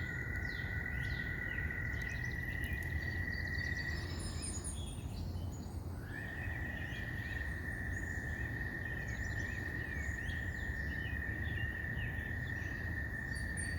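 Outdoor ambience of birds chirping, with a steady high-pitched drone that drops out about four seconds in and comes back two seconds later, over a low rumble of wind.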